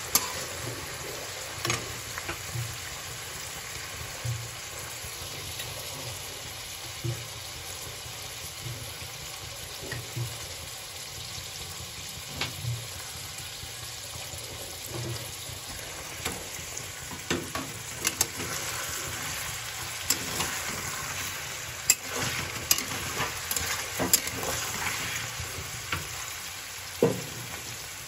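Paneer cubes sizzling in shallow oil in a kadhai, with a flat metal spatula scraping and tapping against the pan now and then. The taps come more often and louder in the second half.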